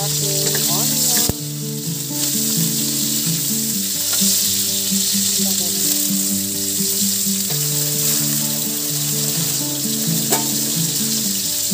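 Onions and garlic sizzling in hot oil in a steel wok as they are stirred with a wooden spatula, with a few light clicks as sliced chili and tomato go in. Soft background music of held notes plays underneath.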